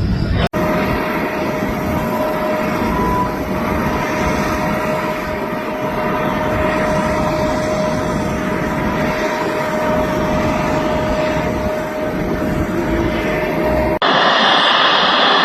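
Fixed-wing aircraft engine running steadily, a continuous noise with one steady whining tone through it. About 14 seconds in it cuts abruptly to a different, higher-pitched aircraft engine noise.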